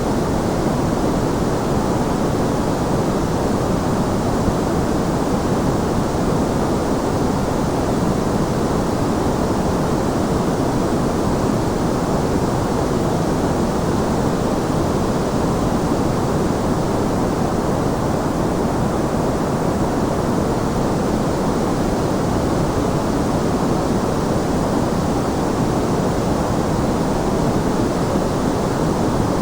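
Steady, unchanging white-noise track: a dense, even hiss weighted toward the low and middle range, with a deep rumble underneath and no changes or events.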